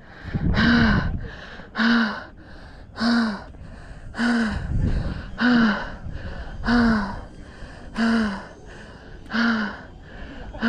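A runner panting hard from heavy exertion on a steep uphill run, each breath out a short sound that falls in pitch, about one every 1.2 seconds. A low rumble, wind on the microphone, comes twice underneath.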